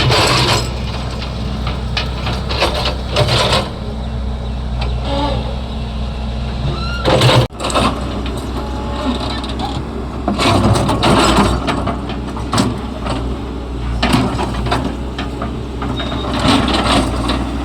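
Heavy excavator's diesel engine running steadily, with repeated bursts of scraping and clattering as the bucket digs and dumps old road material, the sharpest a loud knock about seven seconds in.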